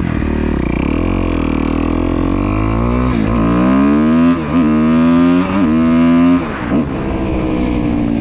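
2015 Kawasaki KX250F's fuel-injected single-cylinder four-stroke engine pulling away and accelerating through the gears. The pitch climbs and drops back at each of about four upshifts, then settles near the end. It is running cleanly with its tight intake valves freshly adjusted.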